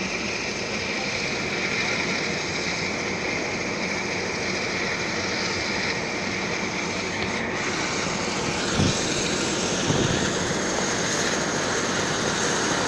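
Helicopter running close by: a steady wash of rotor and turbine noise.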